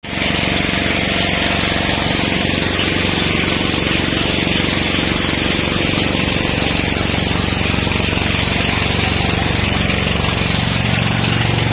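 Engine running steadily at a constant speed, under a loud rushing hiss; its low note gets a little stronger near the end.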